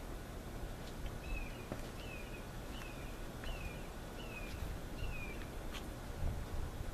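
A bird calling six times: short, identical chirps that drop in pitch, evenly spaced about three-quarters of a second apart, with a few faint clicks.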